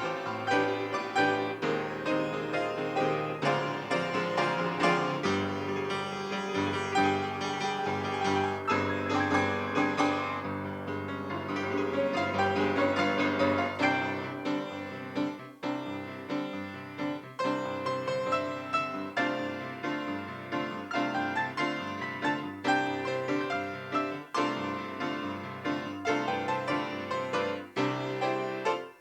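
Piano music: a steady flow of notes over held low tones.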